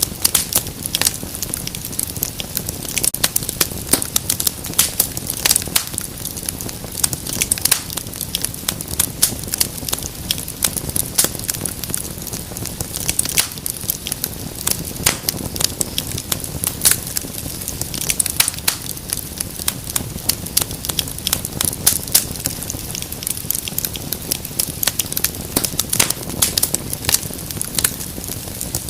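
Wood fire crackling and popping in a fireplace: dense, irregular sharp snaps over a steady low rumble of burning.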